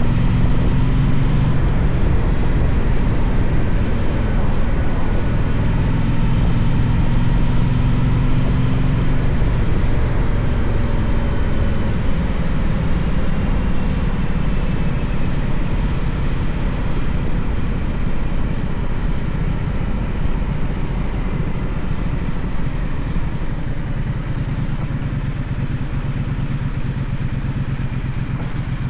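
Gaokin GK1200 motorcycle engine running steadily while riding, over a constant rush of wind noise; the engine note is strongest in the first third and eases a little after that.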